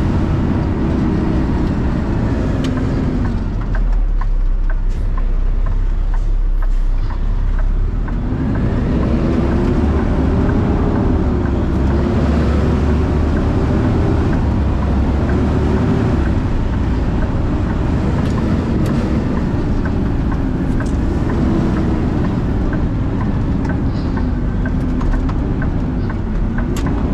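Vehicle engine and road noise heard from inside the cab while driving. The engine pitch rises and falls with speed and drops low for a few seconds early in the drive, as when slowing.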